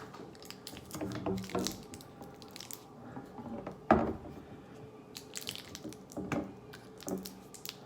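Scattered small clicks, taps and wet squishes of hands handling the rod handle being glued back together with epoxy, with one sharper knock about four seconds in.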